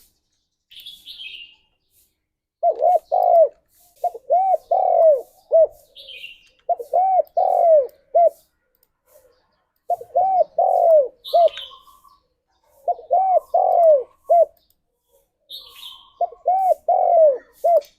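Spotted dove cooing: five phrases of several rolling, arched coos, one about every three seconds. A short, higher chirp comes just before most phrases.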